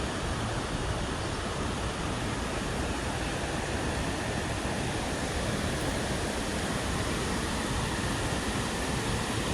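Water spilling over a low dam and falls, a steady even rush.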